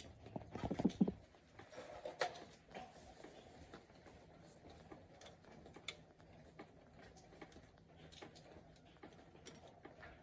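A quick run of light knocks in the first second, then faint scattered ticks and clicks.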